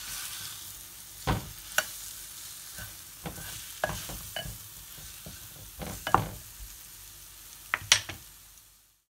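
Chicken leg sizzling as it browns in oil in the base of a tagine, with sharp knocks and scrapes of a wooden spoon and a metal spoon against the pan as the piece is turned over. The sizzle fades and cuts off just before the end.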